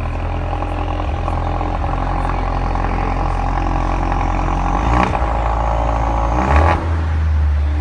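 Turbocharged four-cylinder hot-hatch engine and exhaust running at a steady speed, blipped briefly about five seconds in and revved again a second and a half later, the second rev the loudest, with a sharp crack as it drops.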